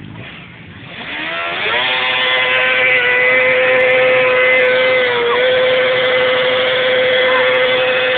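A vehicle engine revs up about a second in and is held at high, steady revs, as in a burnout, with a brief dip in pitch about five seconds in.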